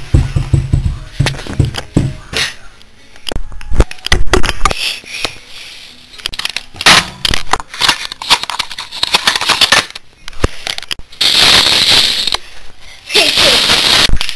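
Close-up handling noise: irregular clicks, crackling and rustling, with some low thumps in the first few seconds and two longer hissing rushes of noise near the end.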